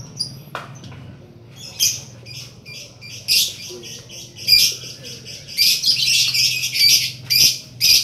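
Small birds chirping in short, high repeated bursts, sparse at first and nearly continuous over the last few seconds, above a low steady hum. A few light knife taps on a cutting board are heard among them.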